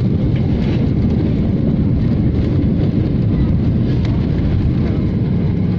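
Transavia Boeing 737 jet noise: a steady, loud low rumble with no breaks.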